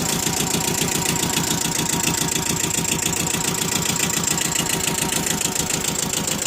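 Kubota B6000 tractor's small two-cylinder diesel engine running steadily at low throttle, with a rapid even chug.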